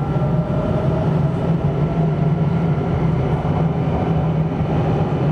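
Steady running noise heard from inside a double-deck electric suburban train in motion: a continuous low rumble with a steady hum and faint higher whining tones.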